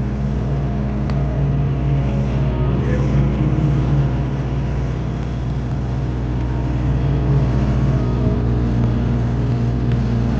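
Steady low engine drone with an even rushing noise above it, holding level without rising or falling.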